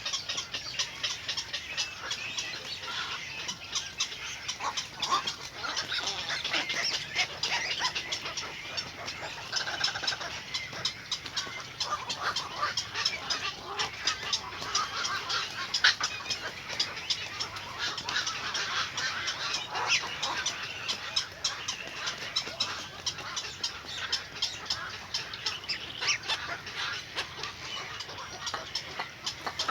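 Birds chirping: a dense, unbroken stream of short, high calls.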